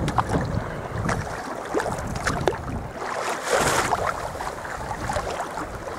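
Sea kayak paddling: paddle blades dipping and water splashing and dripping off them in a run of short splashes, with one longer rush of water about halfway through.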